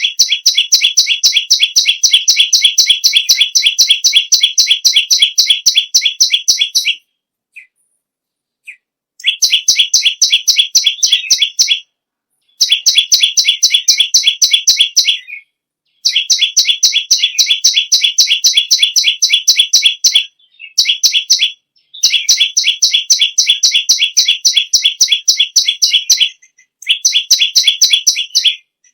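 Perenjak lumut (perenjak bawah) singing hard: long runs of fast, evenly repeated sharp chirps, several to the second, in bouts of a few seconds broken by short pauses.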